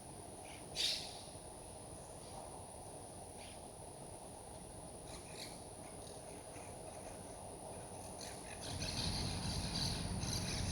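Monk parakeets calling at a bird feeder: one sharp squawk about a second in, then fainter short calls scattered through, which grow busier near the end. A steady high-pitched insect-like buzz runs underneath, and a low rumble rises near the end.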